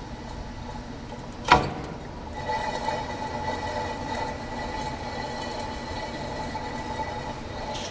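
Rear wheel rim of a 2001 Yamaha YZF-R6 spinning freely, giving a steady metallic whir with a faint ringing tone. A single sharp knock comes about a second and a half in, after which the spinning sound comes back a little louder.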